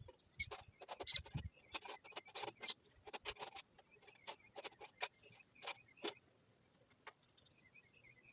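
Quick metallic clinks and rattles of hand tools and loose parts being handled, dense for about six seconds and then tailing off. A faint repeated chirping comes in near the end.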